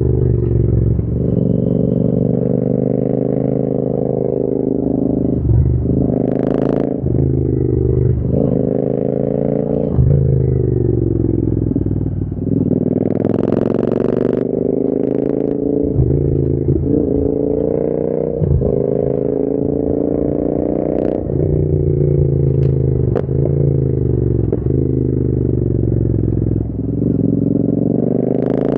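Royal Enfield Interceptor 650's parallel-twin engine through an aftermarket AEW TE101 exhaust, pulling up in pitch and then dropping back again and again as the rider accelerates and eases off through the gears.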